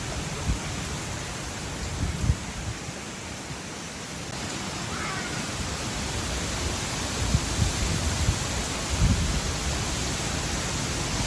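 Strong wind blowing across the microphone: a steady rushing hiss with low buffeting thumps, which come more often in the second half.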